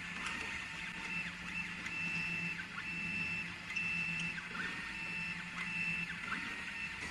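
A 3018PRO desktop CNC machine's stepper motors whine as the gantry makes a series of back-and-forth moves, each about half a second long, with short pauses between them.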